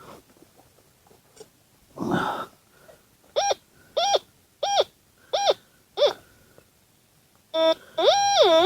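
Metal detector giving five short target tones about two-thirds of a second apart as the coil is swept back and forth over a buried target, each beep rising and falling in pitch; near the end it sounds a longer warbling tone. A short scuffing noise comes about two seconds in, before the beeps.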